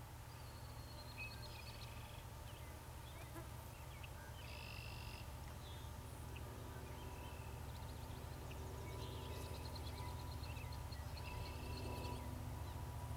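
Small birds singing in short phrases and trills over a steady low rumble that slowly grows louder.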